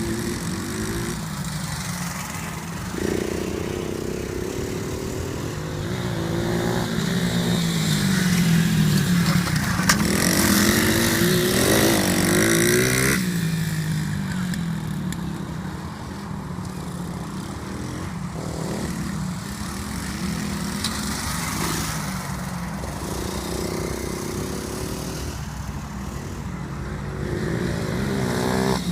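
Stomp 150cc four-stroke pit bike engine running and being revved, its pitch rising and falling as it is ridden. It is loudest about ten to thirteen seconds in.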